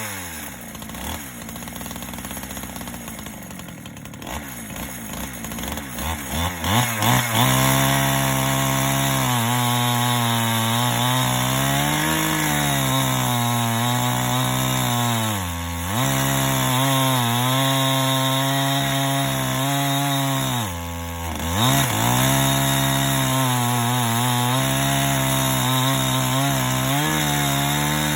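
Two-stroke chainsaw mounted in a chainsaw mill: the engine drops to idle at the start, is blipped a few times about six seconds in, then is held at high revs with its pitch sagging and recovering under load, letting off briefly twice.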